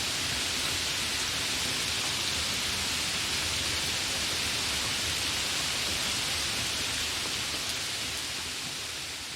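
Steady rain falling, an even hiss that begins to fade out near the end.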